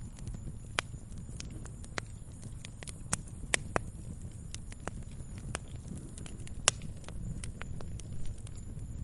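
Wood fire burning in a fireplace: irregular sharp crackles and pops over a low steady roar of the flames, with a few louder snaps.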